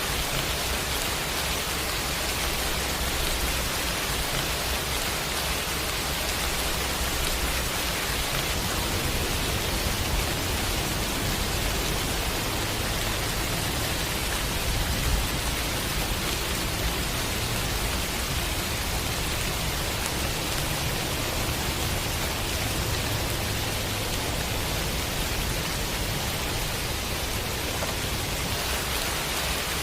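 Steady rain, an even hiss of falling drops, with a low rumble underneath.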